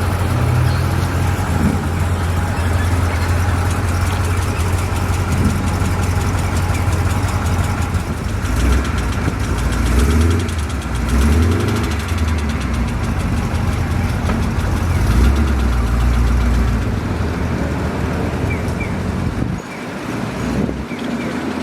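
Classic supercar engine idling with a steady low rumble, then revved several times between about eight and seventeen seconds in, the pitch rising and falling with each blip.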